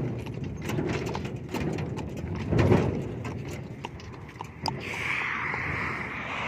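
Hooves of a walking donkey or mule clopping irregularly, over a low rustle. A soft hiss comes in near the end.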